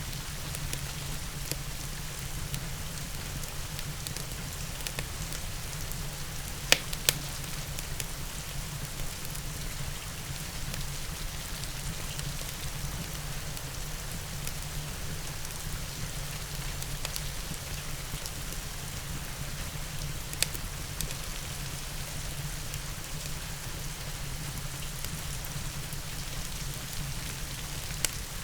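Steady rain falling, with a few sharp crackles from a wood fire: two close together about seven seconds in, another later on, and one near the end.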